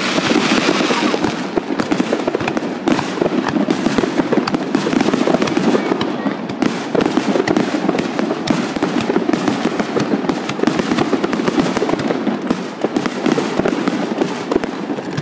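Fireworks finale barrage: aerial shells bursting one on top of another, a continuous dense run of bangs and crackle with no pause.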